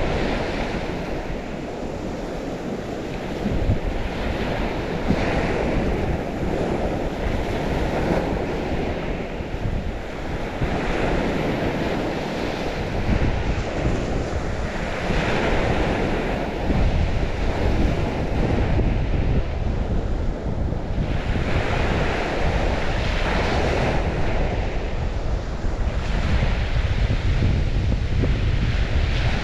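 Waves of the St. Lawrence washing onto the shore in repeated swells every few seconds, with wind rumbling on the microphone.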